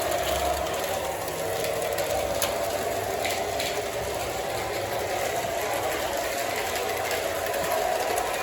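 O gauge LionChief Plus 2.0 Santa Fe RS model diesel locomotive running along the track, a steady mechanical hum with a few faint clicks.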